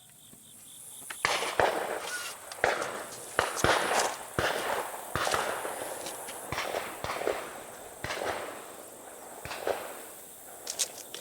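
Footsteps crunching and rustling through dry field vegetation, starting about a second in and going on at an uneven walking pace, each step with a crackly snap.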